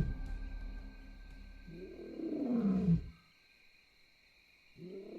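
A lion roaring twice, two separate calls each about a second long that rise and fall in pitch, with a pause between them. Music fades out before the first call.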